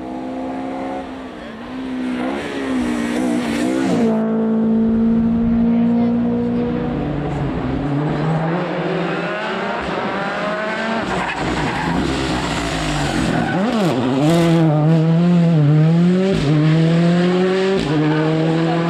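Rally car engine revving hard on a stage, its pitch climbing through the gears, dropping at each change and dipping briefly where the driver lifts off, with tyre noise under it.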